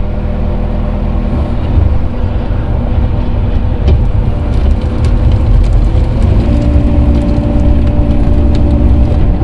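Diesel engine of earthmoving equipment running steadily under load while grading dirt, its pitch shifting a couple of times.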